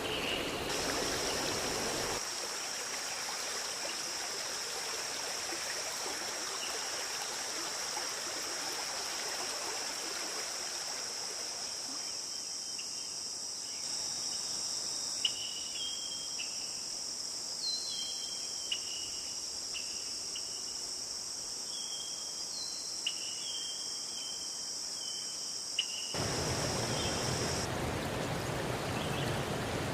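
Flowing stream water with a steady high-pitched insect trill, typical of crickets, running over it. From the middle onward, short high chirps come repeatedly, several times.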